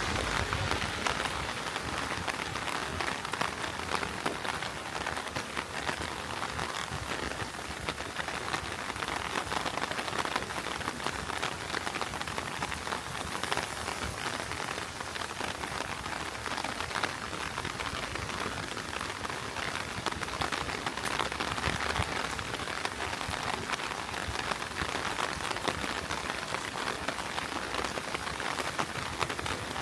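Heavy rain falling steadily: an even hiss thick with the ticks of countless drops.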